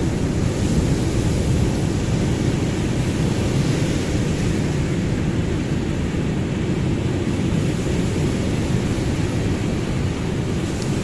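Ocean surf: a steady, deep rush of waves with no distinct breaking crashes.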